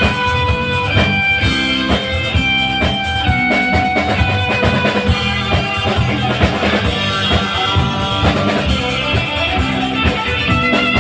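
Instrumental break of a rock song with no singing: a guitar melody over bass and a steady drum-kit beat.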